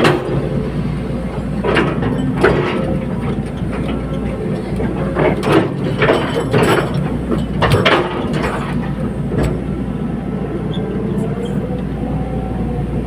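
Hydraulic excavator's diesel engine running steadily under load, with a series of sharp metal clanks and knocks over the first nine or so seconds.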